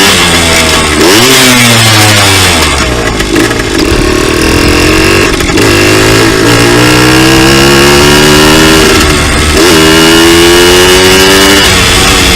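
Two-stroke dirt bike engine running hard, its pitch climbing and dropping back several times. There is one long slow climb through the middle, then a sudden drop and another climb near the end.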